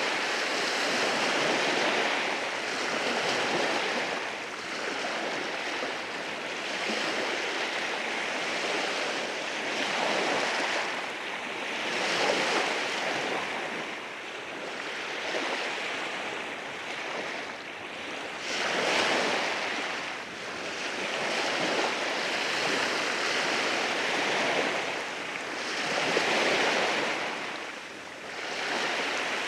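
Sea waves rolling in and washing over rocks on a beach, the surf swelling and easing every several seconds.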